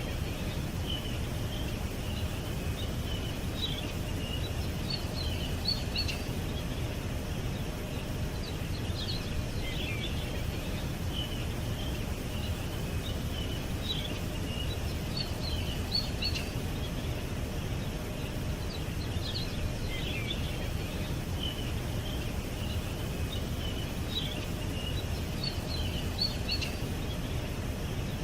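Small birds chirping and singing in short scattered phrases, over a steady low rumble of background noise.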